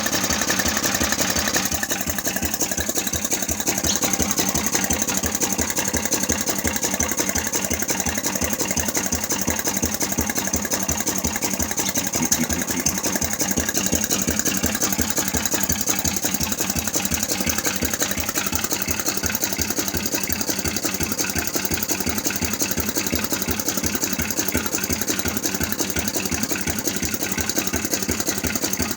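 Buzacott 4C vertical engine running steadily, its exhaust beats coming in an even, rapid rhythm.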